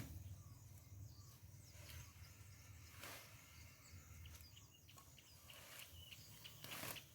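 Near silence: faint outdoor ambience with a low steady rumble and a few faint chirps, and soft rustles about three seconds in and again near the end.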